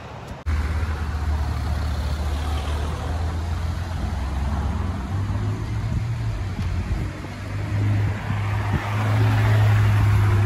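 Ferrari 488 Pista Spider's twin-turbo V8 running at low revs in slow traffic: a deep, steady rumble that steps up in pitch a few times and is loudest near the end as the car passes close by.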